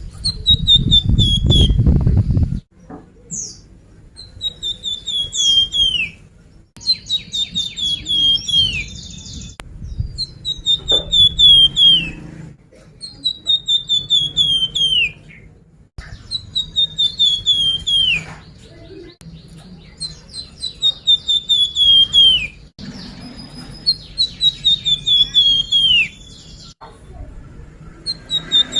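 Songbird known in Indonesia as the flamboyan singing a lure song: the same phrase over and over, about every two seconds, a quick run of high whistled notes that slide downward and end in a longer falling note. A low rumble sits under the first couple of seconds.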